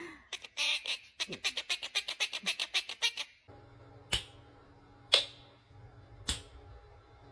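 Quaker parrot making a rapid run of clicking chatter, about seven clicks a second for some three seconds. Then come three single sharp clicks about a second apart, over a faint low hum.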